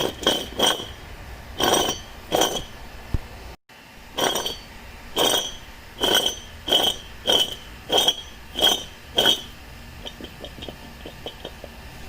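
Sharp metallic clinks, each with a brief ring, about two a second, as bolts are worked out of a differential cover. Fainter, quicker clicks follow near the end.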